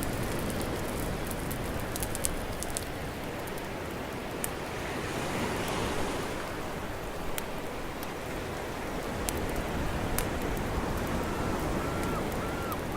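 Steady rushing outdoor ambience with scattered sharp clicks. Near the end comes a run of about six short, evenly spaced chirps.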